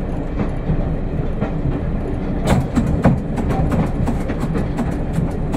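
Diesel railcar running along the track, heard from the driver's cab: a steady low rumble with clicks and knocks from the wheels, coming thicker from about halfway.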